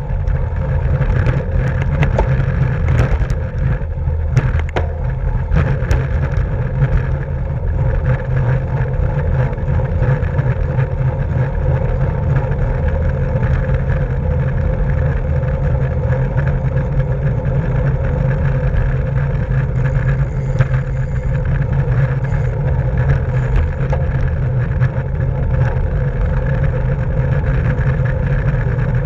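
Steady wind rumble and road noise from a road bike ridden at race speed, with a few sharp clicks in the first several seconds.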